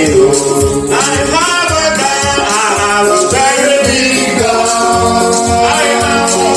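Live gospel praise song: men singing into a microphone over a steady beat, with tambourine or shaker.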